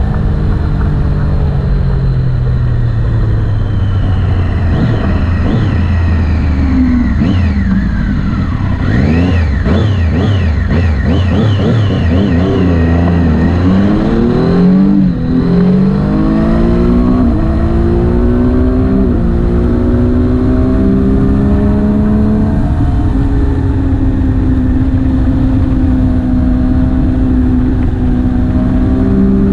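Motorcycle engine on the road: it slows with falling pitch, then about halfway through it accelerates up through several gears in steps and settles at a steady cruising speed.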